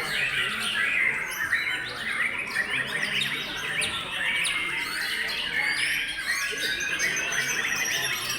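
Many white-rumped shamas (murai batu) singing at once in competition, a dense unbroken overlap of loud whistles, trills and rapid chirps.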